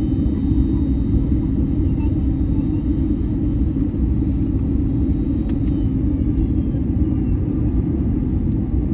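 Steady low rumble of cabin noise inside an Airbus A321 airliner during landing, with a faint steady hum and a couple of light clicks about halfway through.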